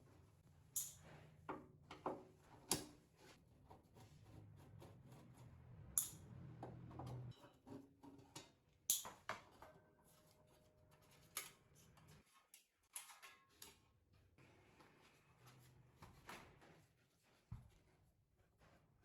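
Irregular sharp clicks and taps of small hand tools and parts being handled on a workbench, over a faint low hum that stops about twelve seconds in.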